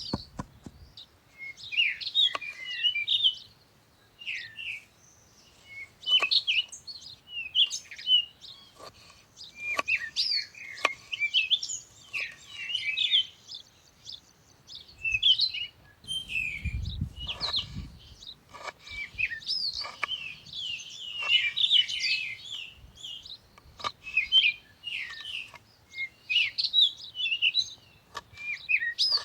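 Several songbirds chirping and singing in quick, overlapping phrases throughout. Occasional short clicks or knocks and a brief low rumble around the middle.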